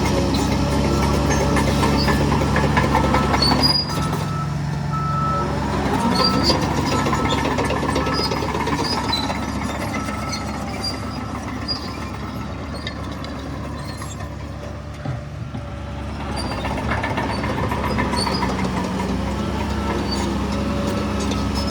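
Heavy earthmoving machinery at work: a diesel engine runs under load, then drops sharply about four seconds in. A reversing alarm beeps for several seconds after that, over faint metallic clinks.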